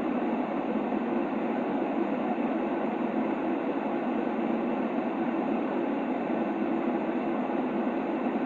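Steady sleep-aid white noise: an even, unbroken hiss weighted toward the low-middle range, giving a soft rumble, with no rhythm or change.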